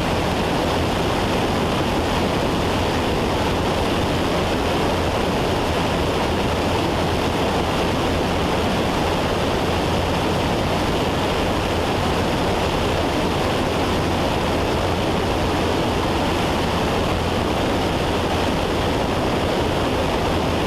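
Steady, unchanging drone of a Cessna 172's piston engine and propeller heard from inside the cabin in cruise flight, a dense rushing noise with a low hum underneath.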